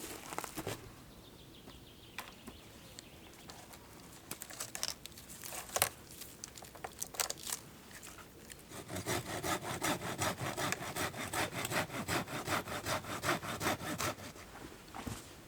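Hand saw cutting through a branch: a few sharp knocks of wood, then from about nine seconds in a steady run of back-and-forth saw strokes, about three a second.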